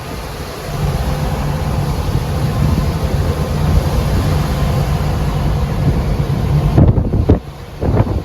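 A heavy truck's engine droning steadily, with road noise, heard from inside the cab while driving. About seven seconds in, the drone drops away and a few short knocks follow.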